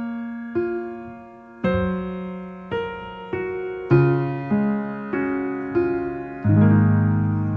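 Slow, gentle solo piano music: single notes and chords struck one at a time and left to ring and fade, with a fuller chord about six and a half seconds in that is held.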